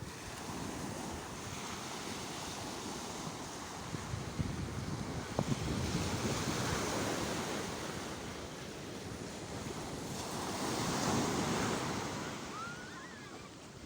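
Sea waves surging and washing in, swelling loudest about six to seven seconds in and again about eleven seconds in, with wind on the microphone.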